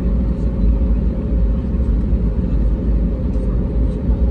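Steady cabin noise inside an Airbus A320neo in flight: a dense, even rumble of engines and airflow with a steady hum running through it.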